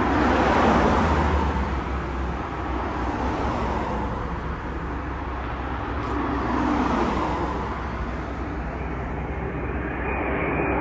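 Road traffic passing outdoors, two vehicles swelling past, about a second in and about seven seconds in. Near the end a steady high whine sets in: a jet airliner on approach.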